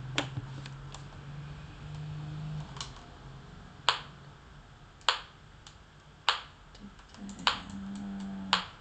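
Metronome clicking, a sharp click about every 1.2 seconds with fainter small clicks between, set to beat the dotted quarter note. A low steady hum comes and goes underneath.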